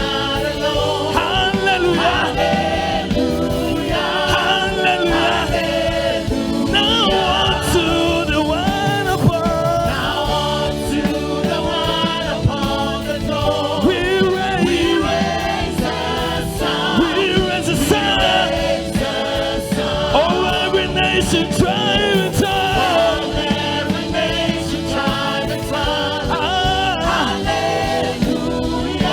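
Gospel choir singing with a full band accompaniment, a worship song performed live.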